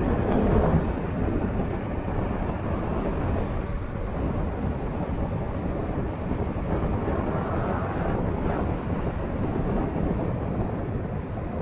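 Wind buffeting the microphone of a moving e-bike: a steady low noise with no clear engine or motor tone, a little louder in the first second.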